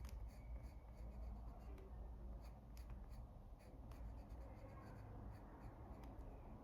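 Coloured pencil scratching faintly on paper in quick, irregular flicking strokes, shading a flower petal darker.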